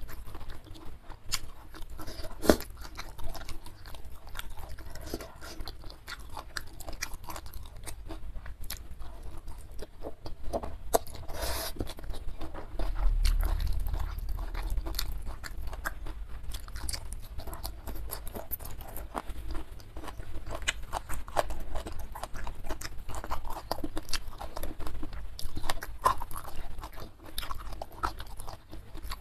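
Close-miked chewing and crunching of food, with a steady stream of small wet clicks and crackles from the mouth, denser and crunchier about eleven seconds in.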